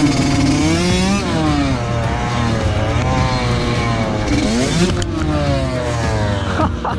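Two-stroke dirt bike engine being ridden, its revs rising and falling over and over as the throttle is worked, with a sudden drop in the revs about five seconds in.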